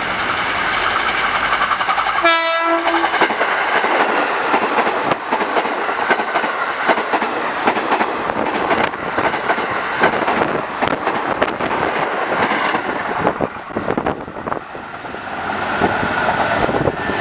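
KRL electric commuter train passing close by at speed: one short horn blast about two seconds in, then the rushing noise and rapid clatter of its wheels over the rail joints as the cars go by. The noise dips about fourteen seconds in and builds again near the end as another train approaches.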